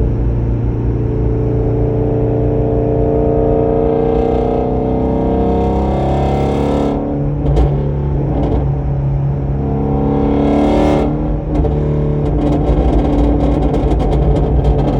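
The 5.2-litre flat-plane-crank V8 of a 2017 Ford Shelby GT350, running through an exhaust with the resonator and catalytic mid-pipes removed, rising in revs under acceleration. About halfway it gives two sharp backfire pops as the throttle closes. After a second pull, it crackles and pops in a rapid string on the overrun near the end.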